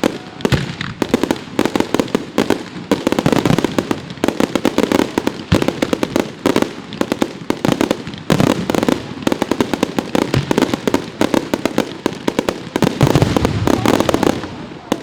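Fireworks display: a dense, continuous barrage of rapid cracks and bangs, many per second, building to a louder stretch near the end.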